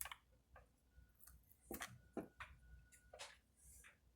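Near silence with a few faint rustles and light clicks as tape is peeled off the end of a chainsaw fuel line and the line is handled.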